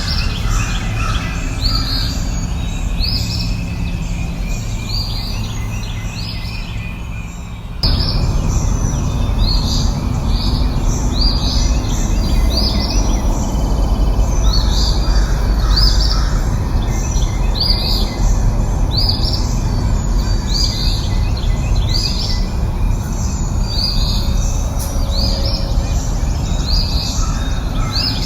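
A bird calling over and over, short high chirps about once a second, over a steady low background rumble. The background noise gets louder abruptly about eight seconds in, and the chirps carry on.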